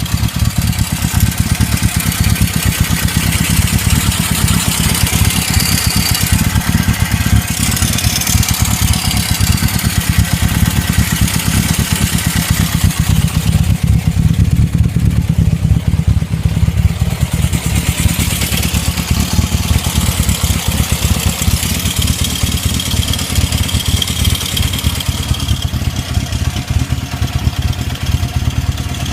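1972 Honda CB750 K2's air-cooled inline-four engine running steadily with a rapid knocking clatter, which the owner fears is a fault.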